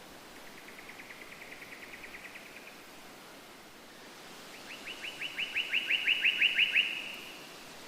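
A songbird singing two fast trills of short, repeated notes, about eight a second. The first trill is fainter. The second starts about two seconds after the first ends, is louder, and each of its notes slides down in pitch. A steady hiss lies underneath.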